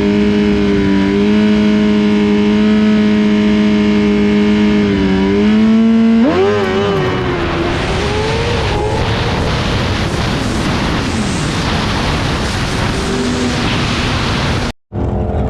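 Liter-class sport bike's inline-four engine held at steady high revs for the launch, then about six seconds in it jumps up and the bike leaves the line, its note wavering and falling away. A brief dropout in the sound comes near the end.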